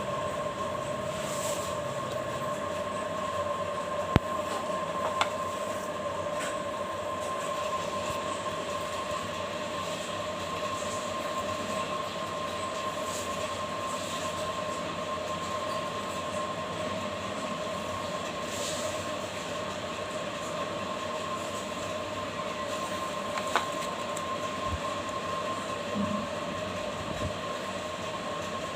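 A steady mechanical hum with a constant high whine, broken by a few faint clicks.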